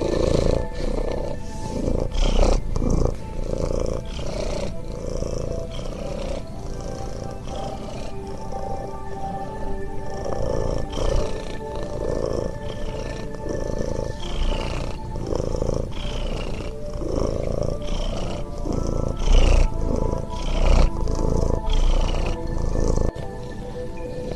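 Cat purring close to the microphone, a continuous low rumble, over background music with steady held tones and short falling high notes every second or two.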